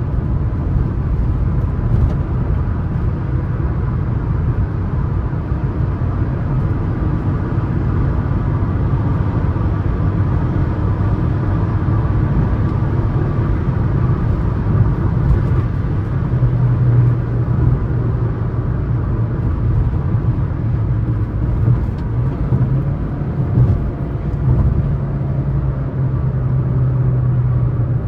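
Suzuki S-Cross 1.3 DDiS four-cylinder diesel heard from inside the cabin while cruising at highway speed: a steady engine drone over tyre and road rumble. The low drone becomes more even for stretches in the second half.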